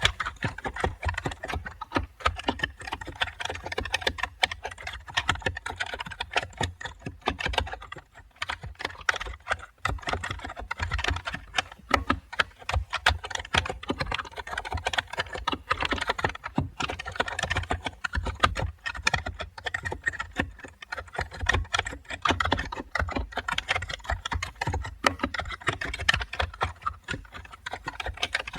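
Typing on a computer keyboard: a continuous, irregular run of key clicks with a short let-up about eight to ten seconds in.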